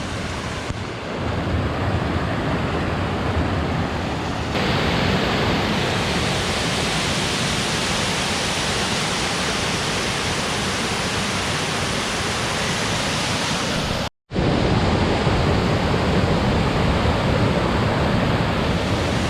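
Waterfall rushing close by: a steady, dense noise of falling water that grows louder about four and a half seconds in. It cuts out completely for a split second about fourteen seconds in.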